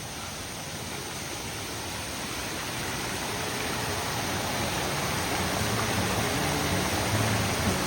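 Mountain stream water rushing steadily, growing louder. Faint guitar music fades in under it near the end.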